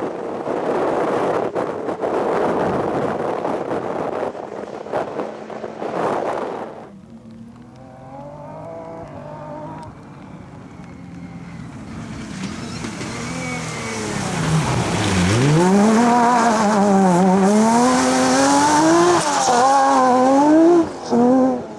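Off-road rally car at speed: a loud rush of tyre, gravel and wind noise at first, then the engine comes in and out of the revs, dropping sharply near the middle and climbing again through several rises and falls as it accelerates past.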